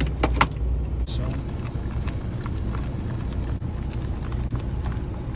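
Irregular clicks and knocks of a utensil against a pan as tortilla chips are stirred into simmering salsa, over a steady low hum.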